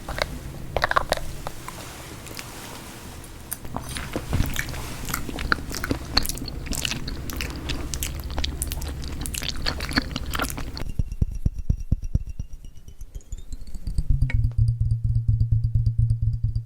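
Close-miked ASMR chewing and biting: a dense run of small clicks and crackles from the mouth. About eleven seconds in it cuts off and music starts, a tone gliding upward over soft sustained notes, with a loud low pulsing beat joining a few seconds later.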